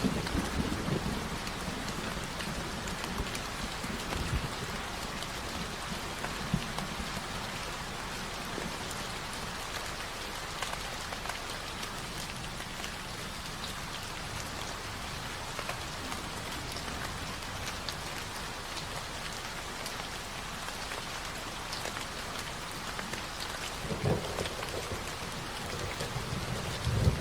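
Steady rain falling, an even hiss of drops, with a low rumble dying away in the first second and another brief low swell near the end.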